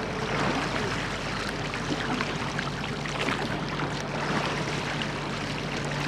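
Water splashing and rushing around a rowed church boat, with scattered light knocks and a steady low hum underneath.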